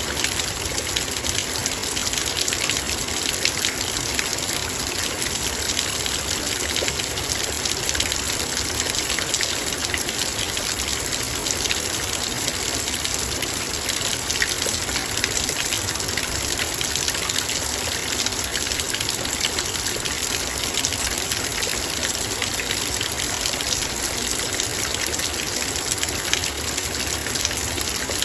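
Heavy rain falling on a metal bowl: a dense, steady patter of drops striking the metal without let-up.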